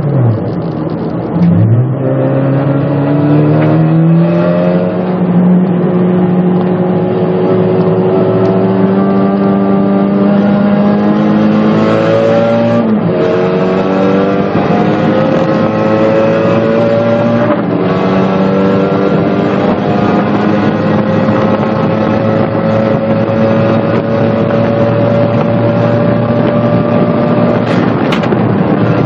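Turbocharged 1990 Mazda MX-5 Miata's 1.6-litre four-cylinder engine heard from inside the cabin under hard driving on track. The revs fall briefly at the start, then climb steadily; they dip sharply and climb again about 13 and 18 seconds in, and dip once more near the end.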